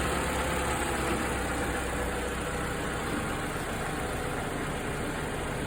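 Lexus RX270's 1AR-FE 2.7-litre four-cylinder petrol engine idling steadily.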